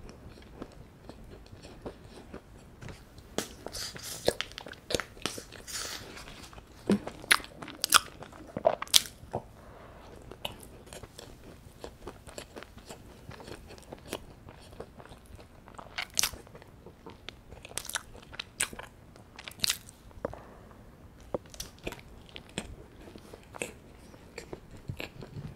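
Close-up chewing of a scone, full of sharp moist mouth clicks and small crunches, loudest in a cluster a few seconds in and again past the middle.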